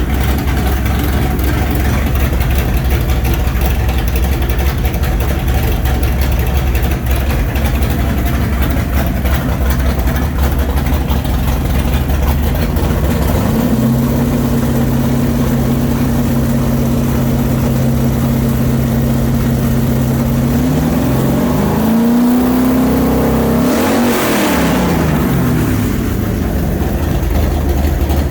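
A 427 Windsor Ford V8 with a roller cam running: it idles, steps up to a steady fast idle about halfway through, gets a couple of short blips, then one sharp rev that climbs and drops back to idle near the end.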